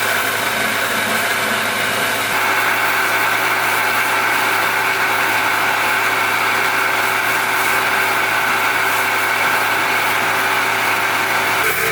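A machine running steadily with a constant hum, its sound shifting slightly about two seconds in.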